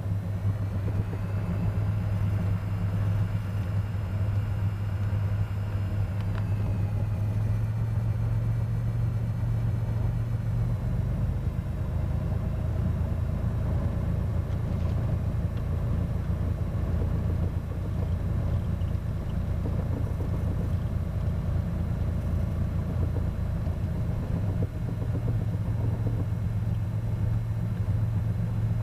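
Cessna 210's six-cylinder piston engine and propeller running steadily at taxi power, a constant low drone. Its pitch rises slightly about a second in, then eases back down around six seconds and again around ten.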